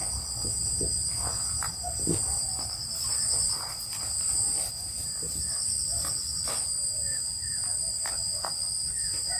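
Night insects, crickets, trilling steadily in two high continuous tones. A faster pulsing trill joins in twice, in the middle of the clip.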